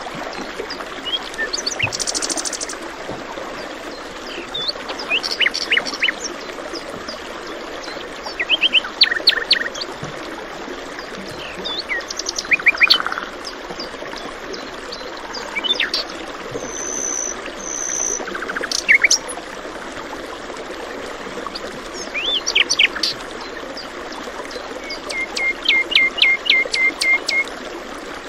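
Several songbirds chirping and singing over a steady babbling stream, with a quick run of repeated notes near the end.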